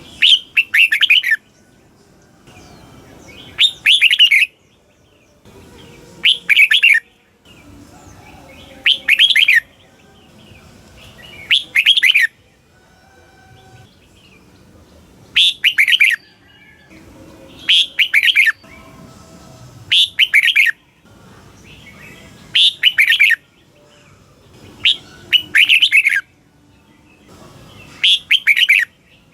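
Red-whiskered bulbul singing: a short, bright, warbling phrase about a second long, repeated roughly every two and a half seconds, eleven times, with a longer pause about halfway through.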